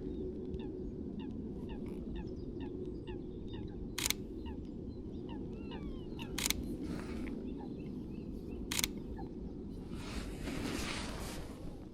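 A bird calls in a run of short repeated notes, about two a second, for the first five seconds or so. A Sony A6700 camera shutter clicks sharply three times, about four, six and a half and nine seconds in, over a steady low outdoor rumble.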